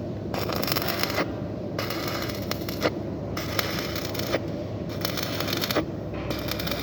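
Welding arc crackling and hissing in repeated bursts of about a second with short breaks between them, as thin sheet-metal ducting is tack-welded.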